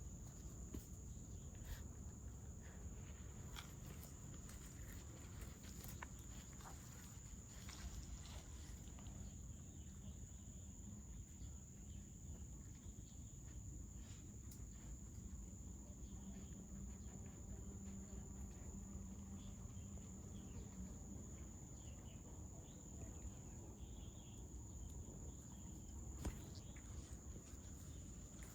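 Faint, steady high-pitched insect drone, with a low background rumble and scattered small clicks and rustles.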